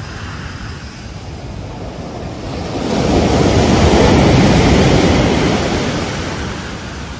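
Ocean surf on a beach: a steady wash of water, with one wave swelling in about three seconds in, peaking, then dying away near the end.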